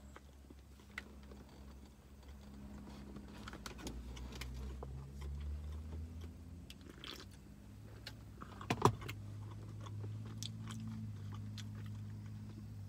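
A person chewing a mouthful of soft protein brownie, with small scattered wet mouth clicks over a steady low hum. One brief louder sound comes about nine seconds in.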